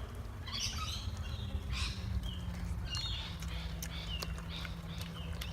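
Birds chirping in short, scattered calls, some dropping slightly in pitch, over a steady low hum.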